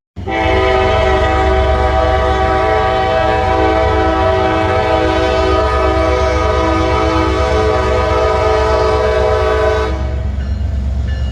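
Locomotive air horn sounding one long steady blast, a chord of several notes, for about ten seconds, then cutting off, over the constant low rumble of a passing train, which carries on after the horn stops.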